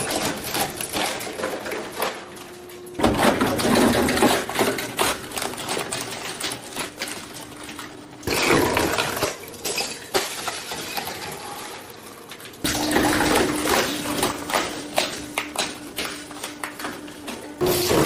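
Industrial shredder crunching a plastic toy cement mixer truck: dense cracking and snapping that surges suddenly four times, about every four to five seconds, and each time fades back toward the shredder's steady motor hum.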